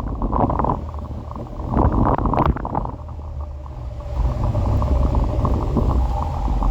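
Wind buffeting the microphone with a low rumble of road noise from a moving electric scooter. A few short knocks come in the first couple of seconds, and the rumble steadies from about four seconds in.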